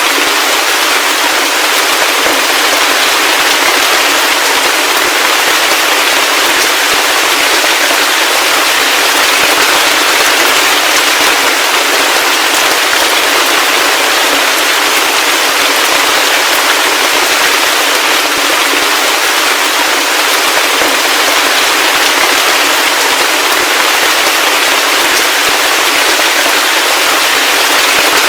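Heavy rain falling steadily: a dense, even hiss of crackling patter with no deep rumble and no thunder.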